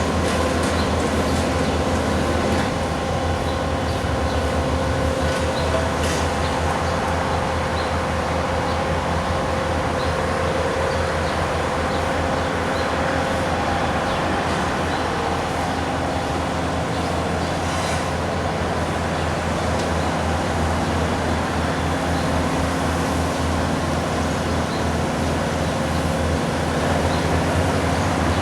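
Bobcat skid steer loaders working at road milling and sweeping: diesel engines running steadily under load, with a dense rumble and occasional faint clicks.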